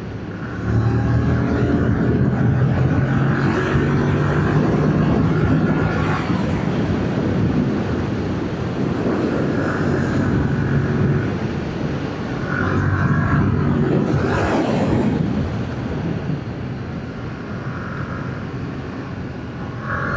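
Yamaha MT-07's 689 cc parallel-twin engine running on its stock exhaust while riding, the engine note rising and easing off several times.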